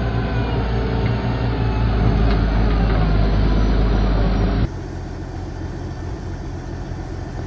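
Heavy engine running steadily with a deep low hum, louder for a couple of seconds before it cuts off abruptly about two-thirds through to a quieter engine sound.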